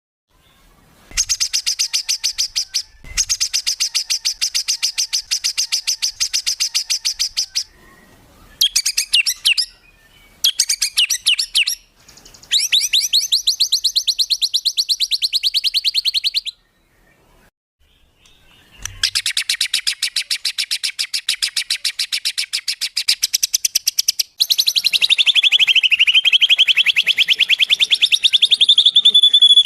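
Songbird song of the rapid-fire 'tembakan' kind: very fast, machine-gun runs of high notes, in several bursts with short breaks between them, ending in a long unbroken trill that dips in pitch and climbs again.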